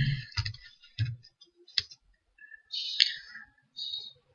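Scattered computer mouse clicks, a few sharp separate clicks with short rustling noises between them, as lines and surfaces are selected in modelling software.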